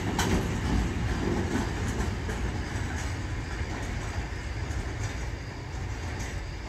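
Freight train of covered hood wagons rolling past and away, a steady low rumble with wheels clicking over rail joints. The sound eases off slightly as the wagons recede.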